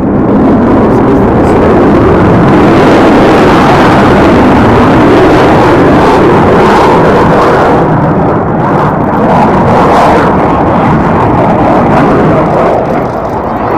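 Aircraft engine noise from a low flypass: a loud, steady rush that swells in the first second, dips briefly about eight seconds in, and eases near the end.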